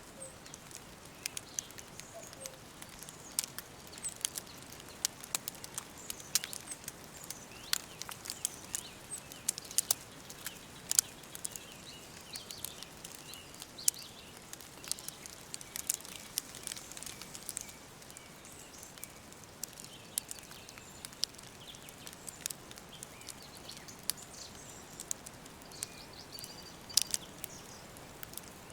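Wood fire crackling, with irregular sharp pops throughout, and small birds chirping faintly in the background.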